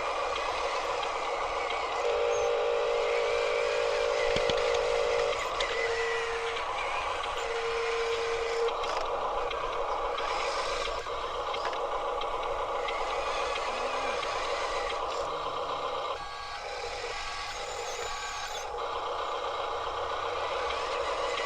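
Small electric motors of remote-control toy trucks whining steadily, with a held electronic tone about two seconds in and two short beeps a little later, like a toy truck's reversing-beep sound module.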